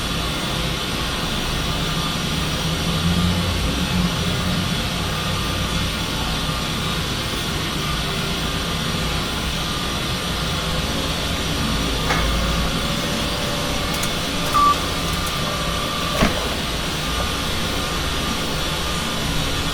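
Steady factory-floor machinery noise, a low hum under an even hiss, with a few sharp clanks and a short high beep in the second half.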